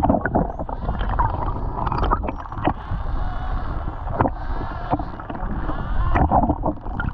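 Water rushing and wind noise around a sailing catamaran under way, steady throughout, broken by several sharp, sudden splashes or knocks.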